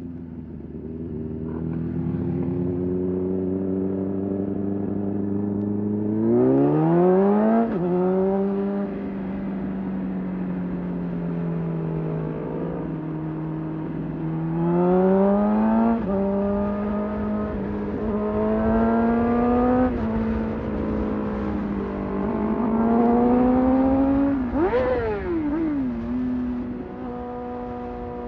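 Sport motorcycle engine pulling away and accelerating through the gears: the revs climb steeply about six seconds in, drop at the upshifts and climb again several times, with a quick sharp rev-up and fall about twenty-five seconds in.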